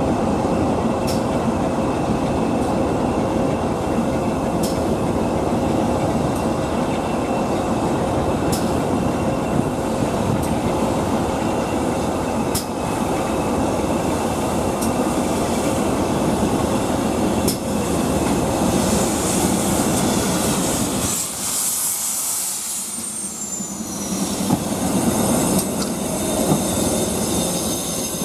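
Railway train running along the line: a steady rumble and wheel noise, with a sharp click every few seconds. The low rumble drops away briefly about three quarters of the way through.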